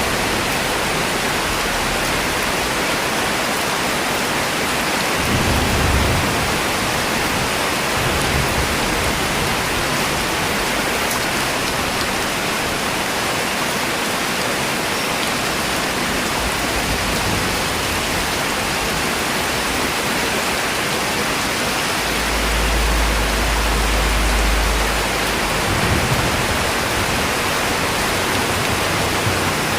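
Steady, heavy rain falling, an even dense hiss. A few brief low rumbles come through, the longest lasting about three seconds a little past two-thirds of the way through.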